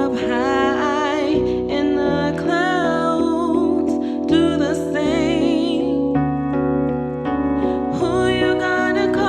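A woman singing a wordless, melismatic vocal line with vibrato over sustained piano chords. For a couple of seconds past the middle the voice drops out and the piano chords ring on alone, then the singing comes back in.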